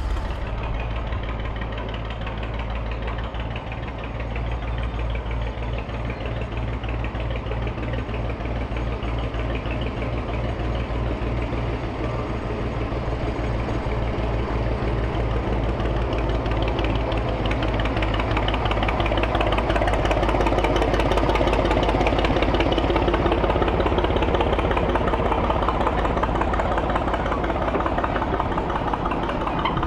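Small Ruston LBT narrow-gauge diesel locomotive engine running with a rapid, even beat, growing louder over the second half.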